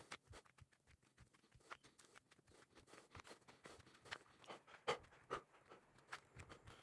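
Faint footsteps crunching and scuffing on dry ground, growing steadier about halfway through at roughly two to three steps a second.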